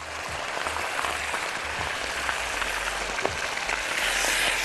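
Small pieces of liver dropped into very hot oil with garlic, sizzling hard as they fry, stirred with a spatula near the end. The sizzle swells slightly toward the end.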